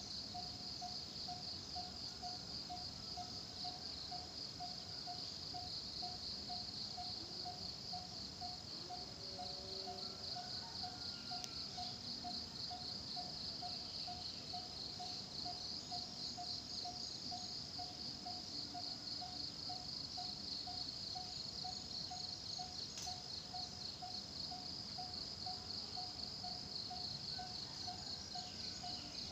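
Forest insects trilling in a steady, high, pulsing chorus, with a lower note repeated about twice a second underneath.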